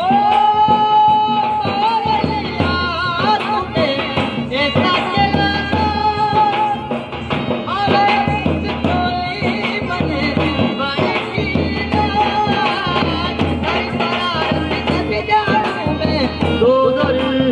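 Live Rajasthani folk music: a held, bending melody in voice and instruments over steady, regular drumming.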